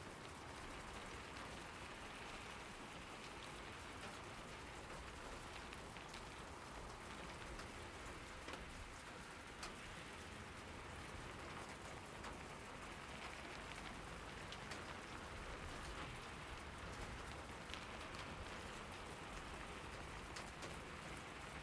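Steady rain falling, a soft even hiss with scattered individual drops ticking on a surface.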